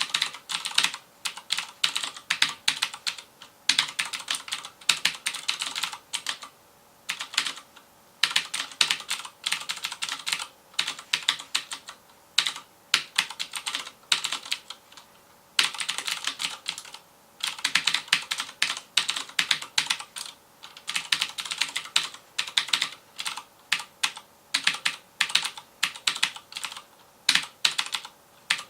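Fast typing on a FILCO Majestouch Convertible 2 mechanical keyboard with Cherry MX Blue switches: rapid, sharp clicky keystrokes in runs of a few seconds, broken by short pauses.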